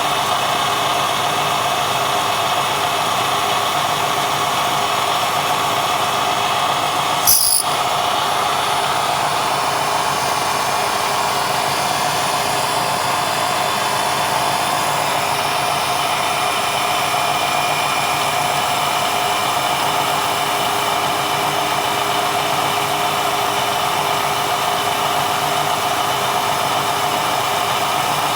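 A quill-fed drilling machine running steadily with a carbide bit, drilling out an exhaust stud. There is one brief sharp click about seven seconds in.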